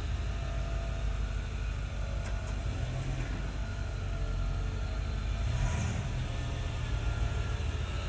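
1994 GMC Sierra 2500 pickup's engine running steadily with a low rumble as the truck is test-driven on its newly installed 4L60E automatic transmission.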